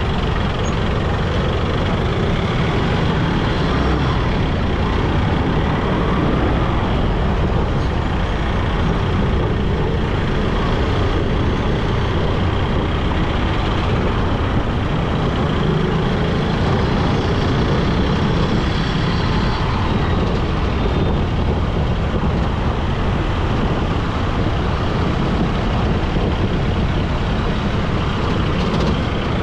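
Steady road noise on a motorcycle ride through city traffic: engine, tyres and wind on the microphone in a loud, even rush, with passing trucks and buses.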